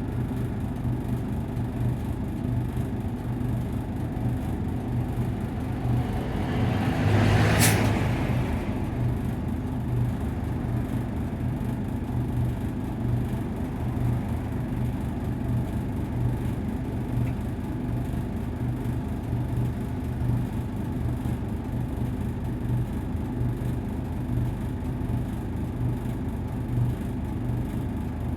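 A Nissan Diesel KC-UA460LSN route bus heard from on board while it runs: the steady drone of its diesel engine. About six seconds in the sound swells, then ends in a short, sharp hiss at about seven and a half seconds.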